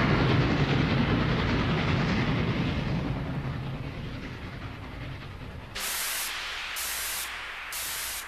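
Recorded train sound effect: a rumbling train that fades away over several seconds, then evenly spaced hissing bursts about once a second, like a steam locomotive's exhaust.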